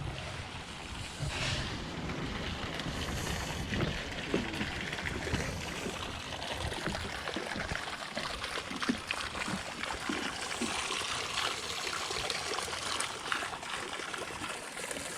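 Hot-spring water trickling and running steadily, with small splashes, at a steaming foot bath.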